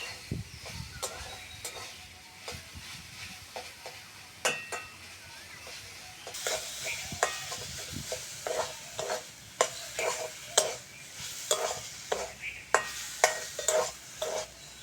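Amaranth greens, onion and garlic frying in a pan. The oil sizzles, louder from about halfway through, while a spatula stirs with repeated clicks and scrapes against the pan.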